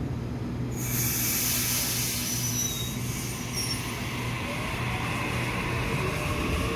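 Electric passenger train moving at a station platform. A hiss of wheels on rail starts suddenly about a second in, with a few short high squeals, and from about five seconds in the traction motors' whine rises in pitch as the train picks up speed.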